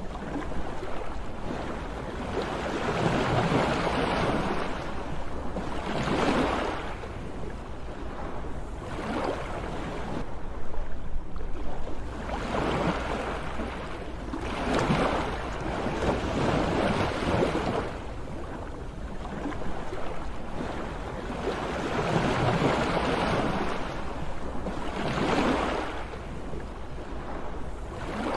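Sea waves surging and washing in, the rush of surf swelling and fading every few seconds, over a steady low rumble.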